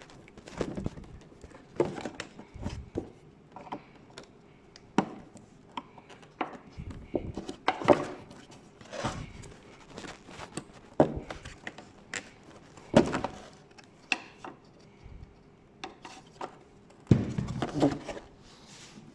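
Irregular knocks, clicks and rubbing of hard plastic parts being handled while a car's rear light unit is worked loose and taken out. The louder knocks come about 8, 13 and 17 seconds in.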